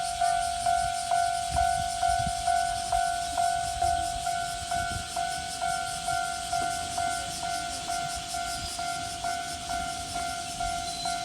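Railway level-crossing warning bell ringing steadily at about two strokes a second, with the low rumble of a train beneath it.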